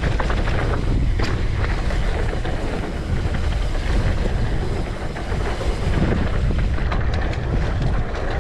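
Wind rushing over the microphone of a mountain bike rider's camera while riding a loose, dry dirt trail, with tyre noise and a few short clicks and rattles from the bike.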